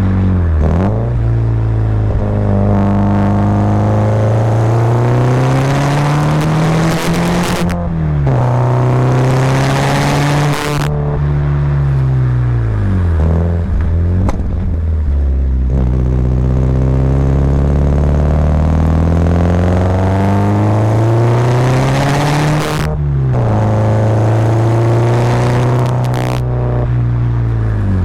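Subaru Impreza WRX's turbocharged flat-four boxer engine under load. The revs climb steadily and then drop sharply about four times as it pulls and either shifts gear or lifts off.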